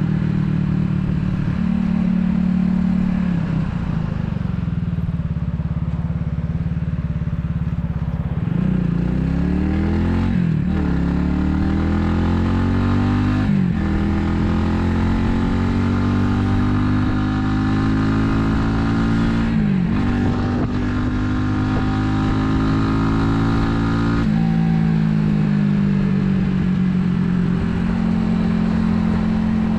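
Italika 250Z's single-cylinder four-stroke engine idling steadily, then pulling away and revving up through the gears, its pitch dropping and climbing again at three gear changes, before easing back to a steady low tone near the end.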